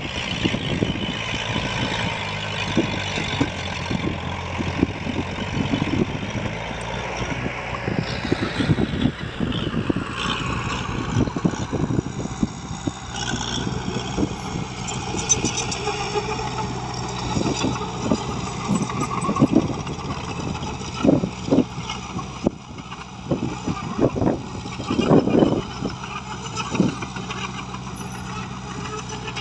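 Diesel engines of an excavator and dump truck running steadily, with repeated knocks and clunks that come thicker in the second half.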